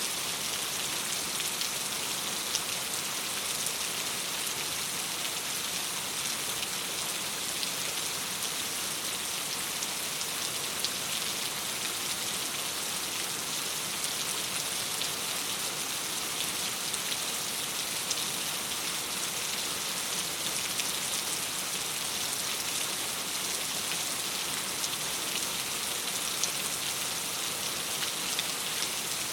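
Steady rain falling against a window: an even, unbroken hiss with fine scattered ticks of individual drops.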